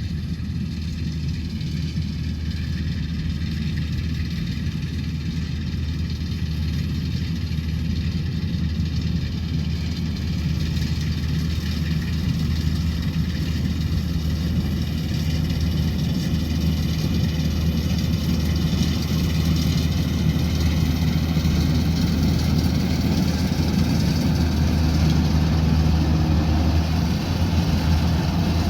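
Combine harvester engine running steadily with a low drone and a faint high whine, growing slowly louder through the second half.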